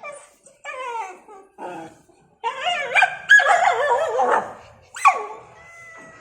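A dog whining and yipping: a few short whines, then a longer, louder wavering cry about two and a half seconds in, and a sharp yelp near the end.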